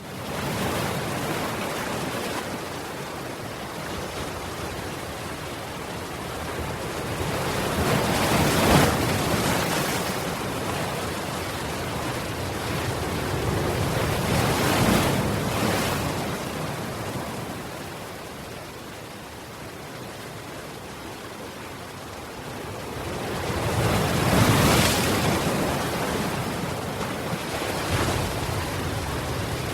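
Sea waves surging and breaking, cutting in suddenly at the start and swelling to a loud peak three times.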